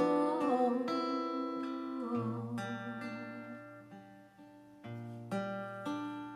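Acoustic guitar playing chords, struck and left to ring. The playing dies down about four seconds in, then fresh chords are struck near five seconds.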